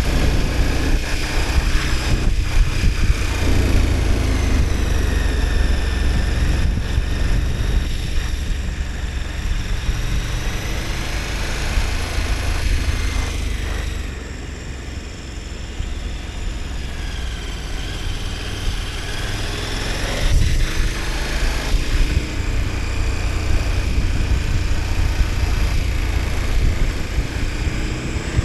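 KTM 1290 Super Adventure S's V-twin engine running under way, its revs rising and falling, easing off for a moment about halfway through, with heavy wind rumble on the microphone.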